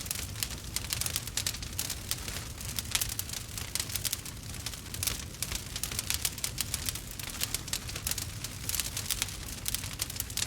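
Wood fire crackling and popping steadily, with many small irregular snaps over a low rumble of the flames.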